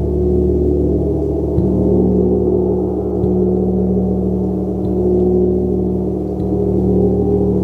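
Gong played with soft, evenly spaced mallet strokes about every second and a half, keeping up a continuous low, ringing wash of overlapping tones.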